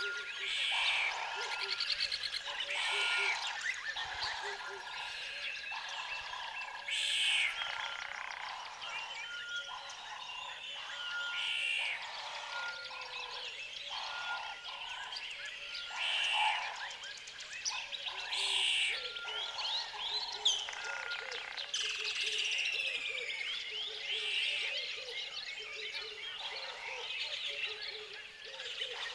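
Outdoor nature chorus of frogs croaking and birds chirping and calling, many voices overlapping continuously, with louder calls coming every second or two.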